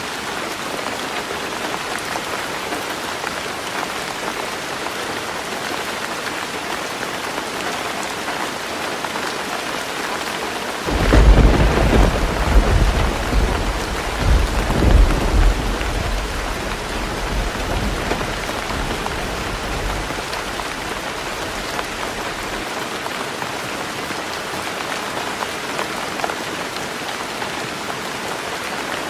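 Heavy rain falling steadily on a roof. About a third of the way in, a roll of thunder starts suddenly, rumbles low for several seconds in a few swells, and fades away under the rain.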